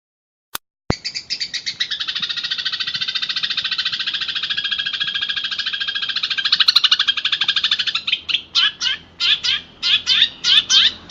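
Recorded songbird song, harsh and buzzy: after a click, a very fast rattling trill starts about a second in, and near eight seconds it breaks into separate downward-sweeping notes, about three a second.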